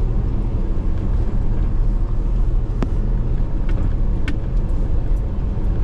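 Car driving along a town road: steady low engine and road rumble, with two sharp clicks about three and four seconds in.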